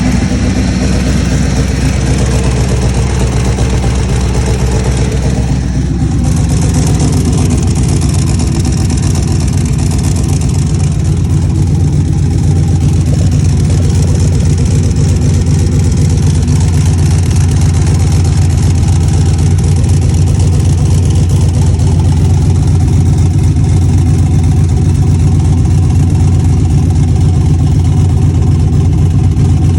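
Engine idling steadily with an exhaust leak. About six seconds in, the sound turns deeper and fuller and stays that way.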